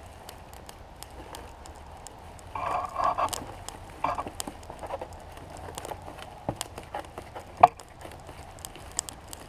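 Portable gas camp stove burner hissing steadily under a pot of melting lead, with scattered crackles and ticks. A louder rasping burst comes a couple of seconds in, and a single sharp metallic tap rings out near the end.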